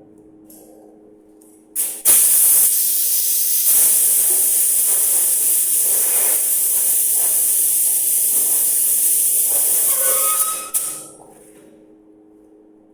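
Air spray gun spraying urethane paint: a short burst near 2 s, then one long, steady, loud hiss of about nine seconds that cuts off near 11 s.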